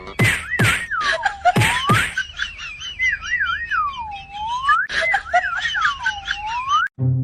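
Whistling that wavers quickly up and down and then swoops low and back up. The pattern repeats about four times, with sharp clicks or taps between the swoops.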